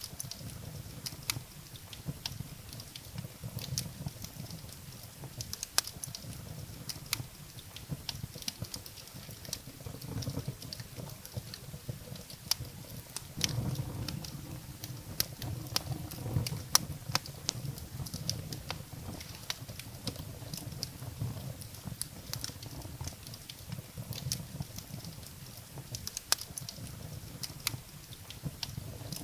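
Firewood burning in a fireplace: irregular sharp crackles and pops over a low rumble, which swells for a few seconds near the middle.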